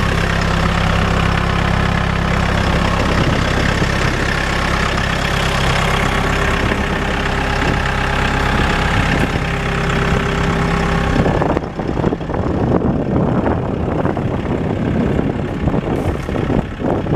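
Diesel engine of a Mahindra 3540 compact tractor idling steadily. About eleven and a half seconds in, the even engine tone gives way to a rougher, uneven noise.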